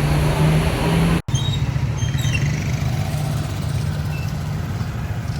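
Street ambience dominated by a vehicle engine running steadily. The sound cuts out completely for a split second just over a second in.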